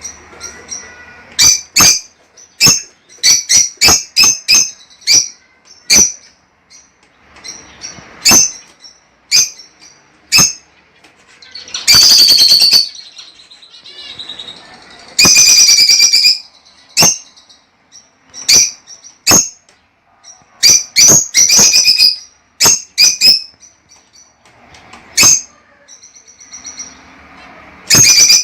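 Lovebirds calling: a string of short, sharp, shrill chirps, broken by two longer chattering calls around the middle.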